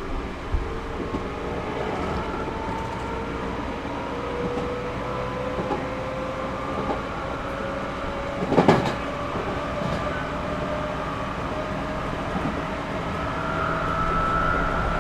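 Running sound inside a Series 211-5000 electric commuter train gathering speed: the traction motor whine climbs slowly and steadily in pitch over the rumble of the wheels. About nine seconds in, a brief loud knock stands out.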